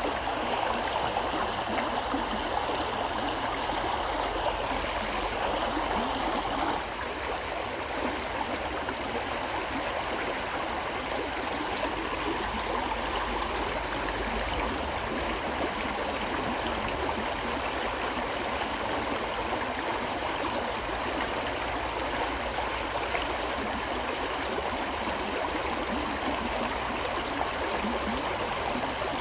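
River flowing steadily, a continuous rush of water, easing slightly about seven seconds in.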